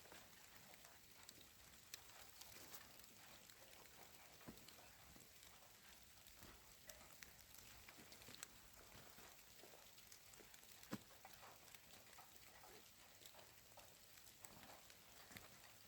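Near silence: a faint hiss with scattered soft ticks and crackles, one sharper click about two-thirds of the way through.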